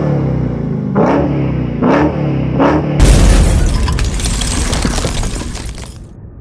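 Supercharged 6.2-litre V8 of a 2023 Dodge Challenger SRT Hellcat Redeye, breathing through Aero Turbine performance mufflers, revved in quick throttle blips, each a short rising rev about a second apart. About three seconds in the sound switches abruptly to a loud, rough rush that fades away near the end.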